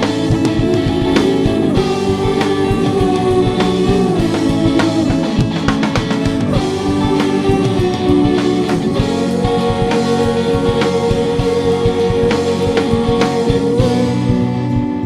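Rock band music: guitars over a drum kit, with a long held note through the second half.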